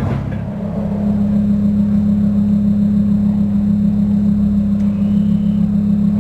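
Lamborghini Huracán LP610-4's V10 engine idling steadily with a low, even hum, not revving.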